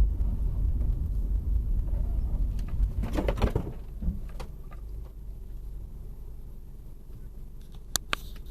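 Low, steady vehicle rumble as picked up by a dashcam, with a brief noisy rush about three seconds in and a few sharp clicks near the end.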